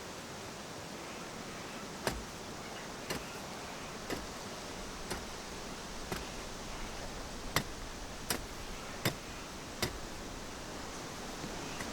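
Footsteps on dry ground, sharp steps about a second apart that quicken near the end, over a steady outdoor hiss.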